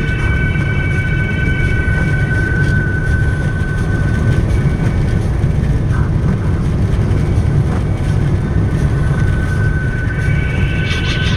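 A car driving on a rain-wet road, heard from inside the cabin as a steady low rumble of engine and tyres, with a steady high tone that fades out midway and returns near the end.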